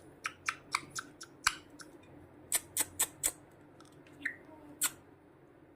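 A pet parrot's beak making a series of sharp, irregular clicks and cracks, about a dozen of them: a cluster in the first second and a half, a quick run of four near the middle, and a last one near the end.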